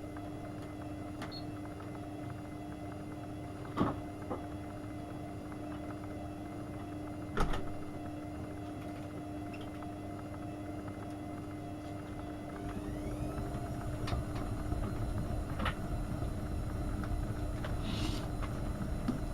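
AEG Öko-Lavamat 72520 washing machine running a boil-wash programme: a steady hum with two sharp clicks. About two-thirds of the way through, its drum motor starts with a short rising whine, and the drum goes on turning with a louder rumble.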